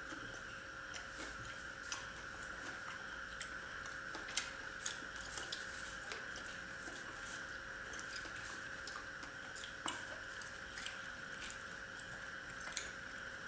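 Close-up eating sounds of two people eating paratha and chili chicken by hand: quiet chewing and mouth noises with scattered sharp clicks, the loudest about four and a half seconds in, over a steady background hum.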